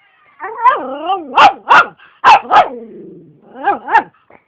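A dog barking: about five sharp barks, with drawn-out, wavering vocal sounds between them.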